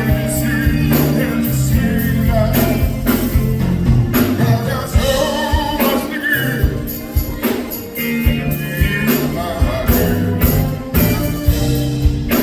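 Live soul band playing a slow ballad: a bass line, a steady drum beat with tambourine-like jingles about twice a second, and a wavering melodic lead line over it, with no lyrics sung.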